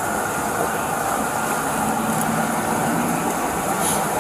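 Steady motor-vehicle noise, with a car engine idling. Near the end there is a brief rustle of clothing rubbing against the body-worn camera during a pat-down search.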